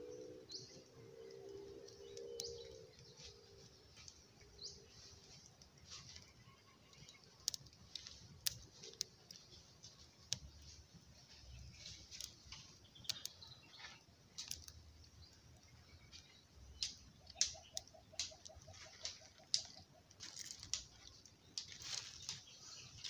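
Birds chirping with scattered sharp clicks and crackles. A short, fast trill comes about three quarters of the way through.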